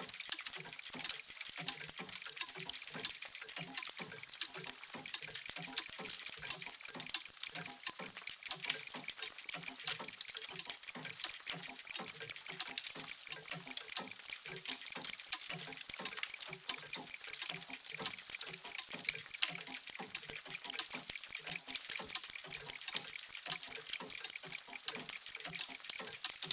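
Many mechanical clocks ticking at once, their ticks overlapping into a dense, steady stream of many ticks a second.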